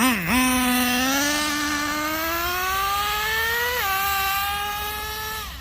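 Traxxas Revo 3.3's two-stroke nitro engine accelerating hard, its pitch climbing steadily for a few seconds, then dropping suddenly about four seconds in as the two-speed transmission shifts up into second gear. The engine then holds a lower, steady pitch and fades slightly.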